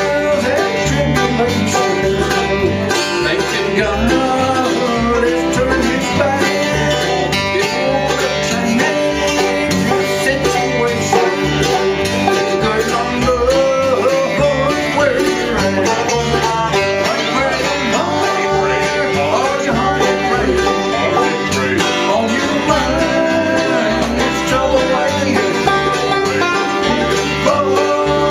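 Bluegrass band playing: five-string banjo, mandolin and guitar picking over an upright bass keeping a steady beat.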